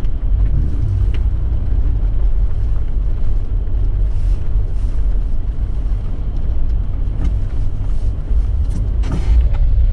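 Vehicle moving slowly over snow: a steady low engine and road rumble, with a few faint knocks and a brief hiss near the end.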